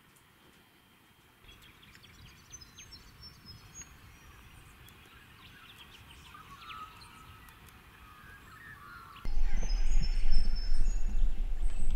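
Birds chirping and calling faintly. About nine seconds in, a loud low rumble starts suddenly and carries on under the birdsong.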